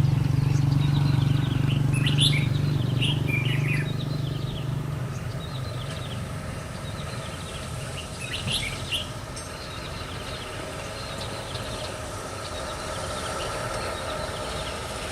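Small birds chirping in short scattered calls, over a low steady hum that fades out after about four seconds.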